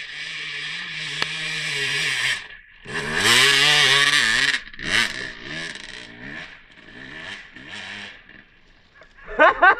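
Dirt bike engine revving under throttle, with a loud rev about three seconds in, then a string of short throttle blips.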